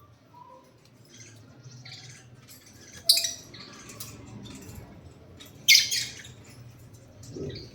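Lovebirds chirping, with faint scattered calls and two loud, shrill squawks about three and six seconds in.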